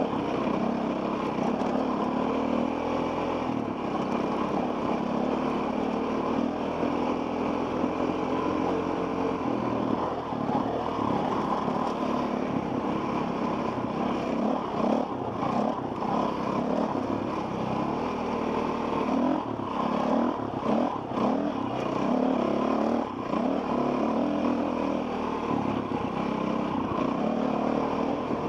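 Enduro dirt bike engine running on the trail, its pitch fairly steady at first and then rising and falling with frequent throttle changes from about ten seconds in.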